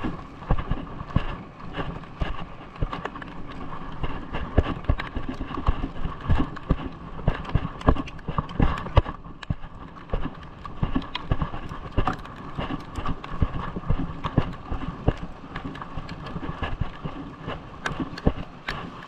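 Irregular sharp knocks and taps, many a second, over a steady hum.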